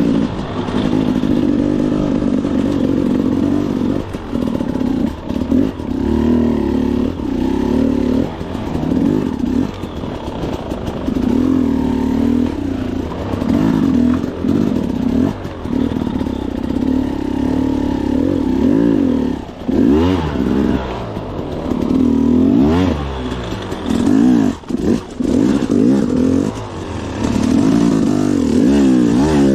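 KTM two-stroke dirt bike engine revving in repeated bursts as the throttle is opened and closed, with the pitch sweeping up on several quick revs in the second half.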